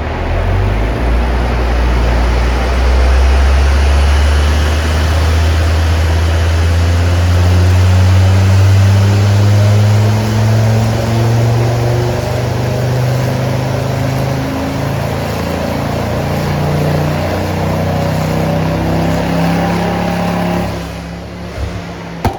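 Turbocharged Ford Focus ST engine doing a full-throttle dyno pull: the engine note climbs steadily in pitch for about fourteen seconds, then changes to a lower, steadier drone and drops away sharply near the end as the throttle is released.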